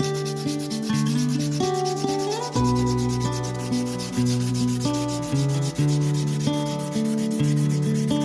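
Fine-grit sandpaper rubbing back and forth on a steel hammer head in quick, even strokes, hand sanding at the start of a polish. Background music with a bass line and melody plays throughout.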